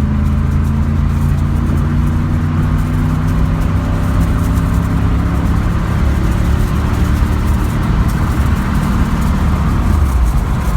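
1997 Camaro Z28's freshly rebuilt V8 accelerating hard under load, its note rising slowly as it pulls up to highway speed.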